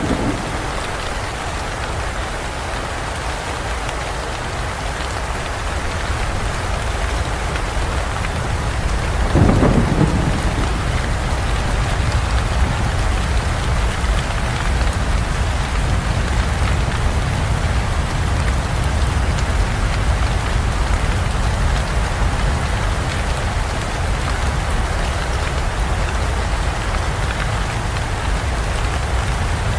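Steady rain falling in a forest, with a clap of thunder about ten seconds in, after which low thunder keeps rumbling.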